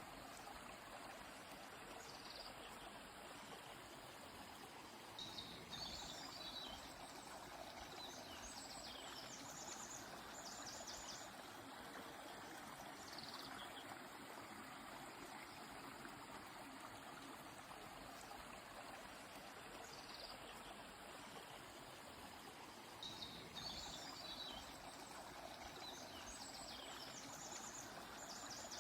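Steady rush of a flowing stream, with a songbird singing two similar high song phrases, one about five seconds in and another near the end, each ending in a quick run of repeated notes.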